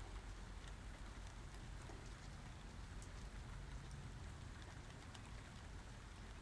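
Steady rain falling, with individual drops ticking over an even hiss and a low rumble underneath.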